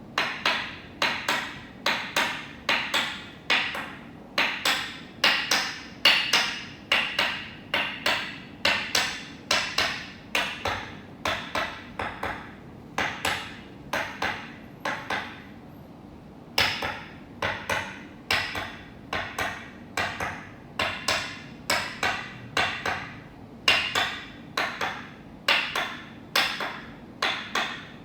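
Toksen massage: a wooden mallet tapping a wooden peg held against the body, in a steady run of sharp wooden knocks, about two or three a second. The tapping pauses briefly a little past halfway, then carries on.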